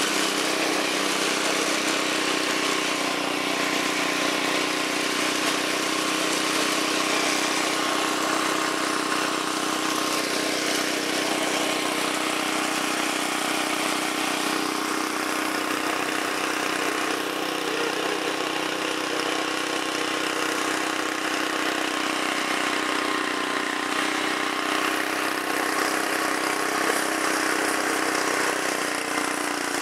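MTD lawn tractor's Briggs & Stratton engine running steadily while the tractor is driven along.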